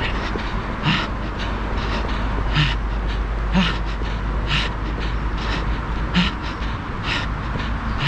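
A runner breathing hard and rhythmically, a sharp breath about once a second, over a steady low rumble of wind and movement on the microphone.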